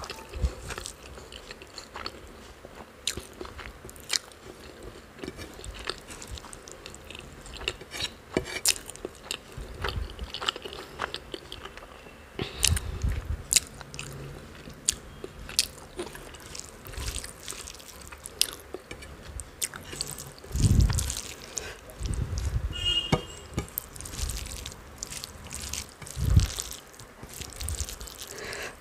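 Close-miked eating of rice and chicken curry by hand: chewing with repeated mouth clicks and smacks, and a few low thuds.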